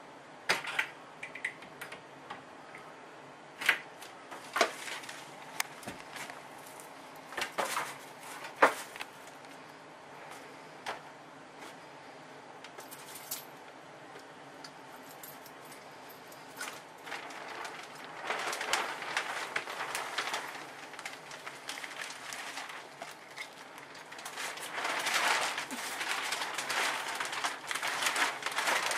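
Scattered sharp clicks and knocks of wall material being handled, then, from a little past halfway, a dense crinkling rustle of plastic vapor-barrier sheeting being pulled away from a basement block wall, getting louder near the end.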